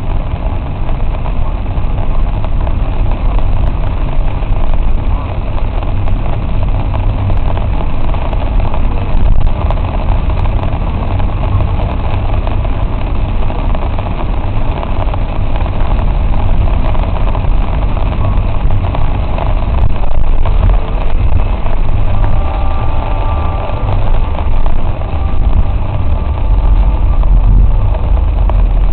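Car driving, a steady low engine and road rumble under a constant noisy hiss.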